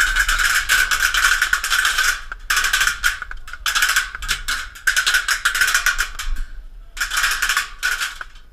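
Airsoft electric gun firing full-auto bursts: rapid clicking shots over a steady gearbox whine, in about six bursts separated by short pauses, the longest about two seconds.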